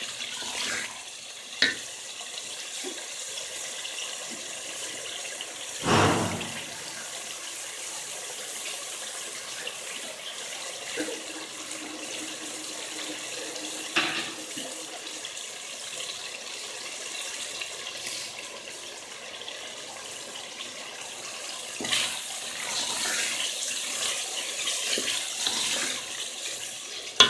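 Tomato, fenugreek and spice masala sizzling in oil in a metal pot as it is fried down and stirred with a wooden spoon. A few knocks of the spoon against the pot, the loudest about six seconds in.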